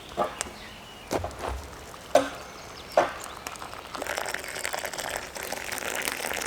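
Hand-tool blows on wood: four sharp knocks about a second apart, then a stretch of dense scratchy rustling and crackling, as of branches being handled.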